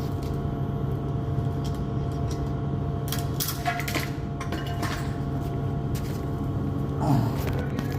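Steady machinery hum with a few sharp clicks around the middle and a brief knock near the end.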